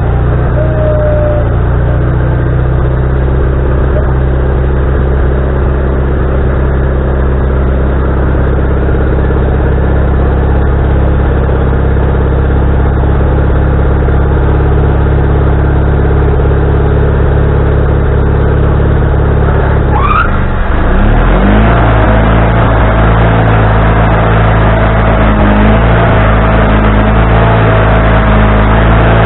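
Wood-Mizer LT40HD sawmill running with its engine at a steady speed. About twenty seconds in, the pitch glides up and the sound turns louder and rougher, with a steady whine over it.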